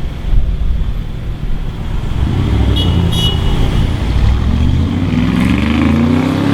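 A car engine accelerating, its pitch rising steadily through the second half, over low wind rumble. Two short high beeps sound about three seconds in.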